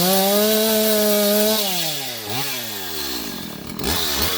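STIHL MS170 two-stroke chainsaw cutting bamboo: it revs up to full throttle and holds there for about a second and a half, drops back, blips once briefly, falls to a low idle, then revs up again near the end.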